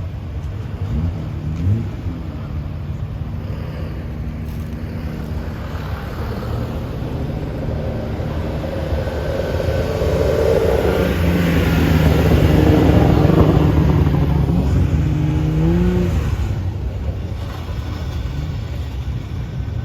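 Modified cars driving out past, engines running with brief revs; one car passes close, growing louder to a peak a little past halfway and then fading.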